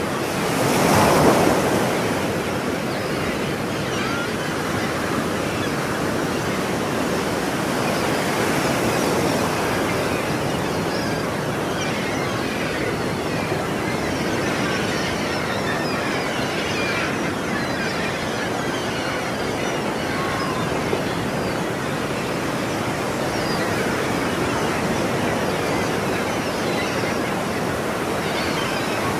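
Ocean surf: waves washing steadily onto a shore, with one louder wave breaking about a second in.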